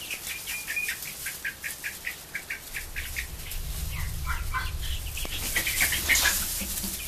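A flock of three-week-old meat chicks peeping, short high cheeps repeated over and over, with a burst of scuffling and wing flapping about two thirds of the way in.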